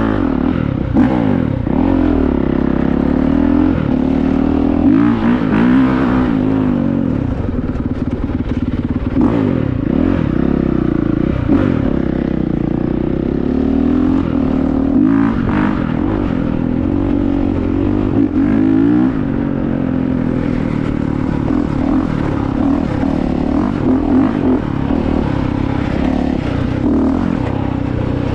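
Honda CRF450R's four-stroke single-cylinder engine revving as the dirt bike is ridden off-road, its pitch repeatedly climbing and dropping as the throttle is opened and closed.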